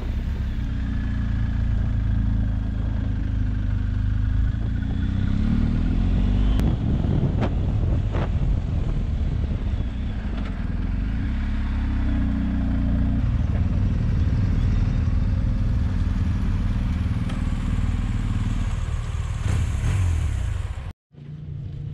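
BMW R 1250 GS Adventure motorcycle's boxer-twin engine running steadily under way, with a few sharp knocks. The sound cuts off abruptly near the end.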